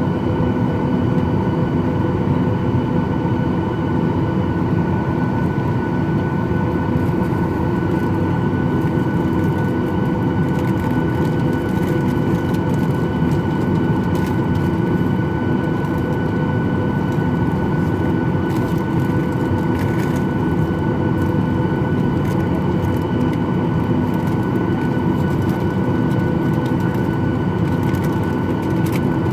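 Cabin noise inside a Boeing 737-800: its CFM56 jet engines running at a steady setting, a loud even rumble with a steady hum and whine that holds unchanged throughout, and a few faint rattling ticks.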